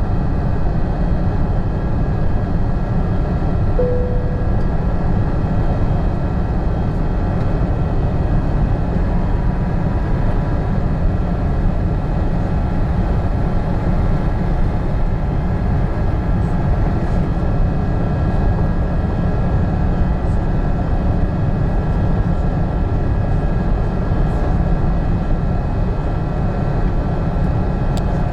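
Steady rumble of an Airbus A380's engines and airflow heard inside the cabin, with faint steady whining tones above it. There is a short tone about four seconds in.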